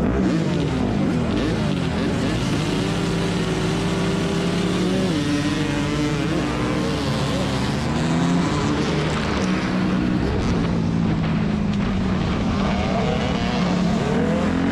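Several motocross bike engines running and revving together, their pitches rising and falling and overlapping. Among them is a 2001 Yamaha YZ250F's 250 cc four-stroke single.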